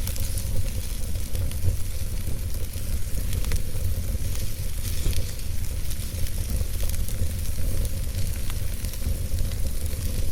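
Wood fire burning in a fireplace: a steady low rumble and hiss with scattered small crackles and pops.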